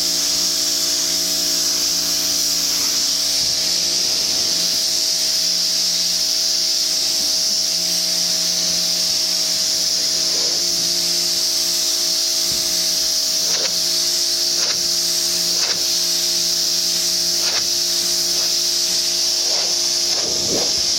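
Greenworks 2000 psi electric pressure washer spraying a steady, hissing jet of water onto a tin roof over the even hum of its electric motor and pump.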